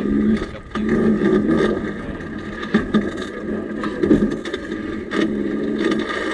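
Home-built railbike rolling along steel rails: a steady metallic ringing hum from the wheels on the track, with irregular knocks and rattles every second or so.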